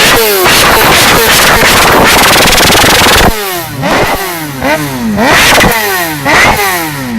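Motorcycle engine revved hard through its exhaust, held at high revs for about three seconds, then the throttle is snapped shut. It follows with four quick throttle blips, each rising and falling back, the last one dying away toward idle.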